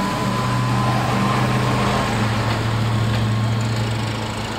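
Porsche 944's four-cylinder engine running steadily at low revs as the car pulls away slowly, a constant low drone with no revving.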